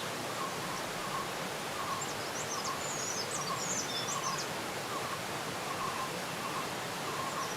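Steady rush of a waterfall, with a short call repeated about every three-quarters of a second and a brief run of high bird chirps a couple of seconds in.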